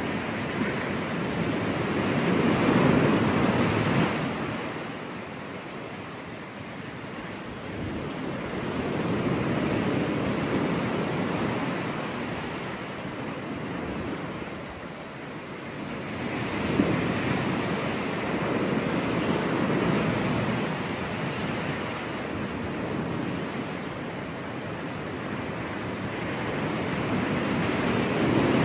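Ocean surf breaking and washing up a beach, the rush of each wave swelling and fading over several seconds, loudest about three seconds in and again near the end.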